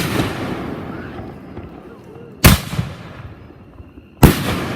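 Fireworks going off: three loud bangs about two seconds apart, each trailing off into a fading crackle and rumble.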